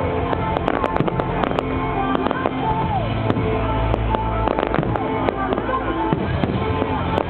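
Fireworks display going off in a rapid run of bangs and crackles, with music playing underneath.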